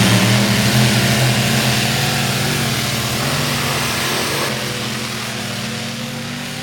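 Modified pulling tractor's engine running hard under load: a deep, steady roar that grows gradually fainter.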